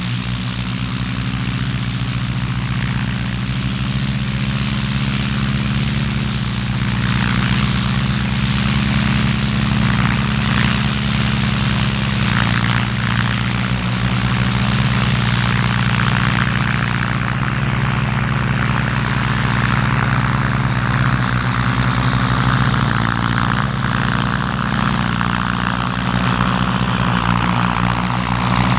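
Diesel farm tractor engine running steadily for a long stretch, with a harsher, noisier mechanical layer that grows louder from about seven seconds in.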